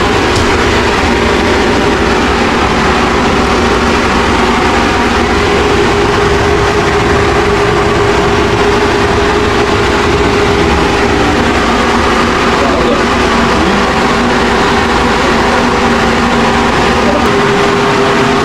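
A motor running steadily and loudly, a machine hum with a few fixed pitches over a noisy rush that does not change.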